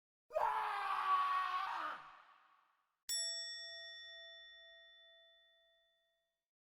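A breathy sound with a falling pitch lasting under two seconds, then a single struck chime that rings out and fades over about three seconds.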